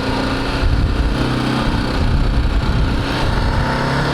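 BMW G310GS single-cylinder engine running steadily while riding, with a heavy low rumble of wind on the microphone.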